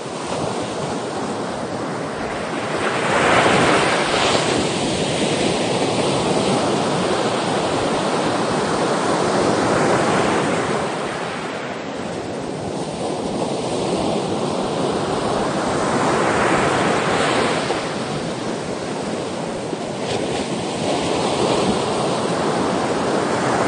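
Sea waves breaking, swelling in a slow rhythm about every six to seven seconds over a continuous wash of surf.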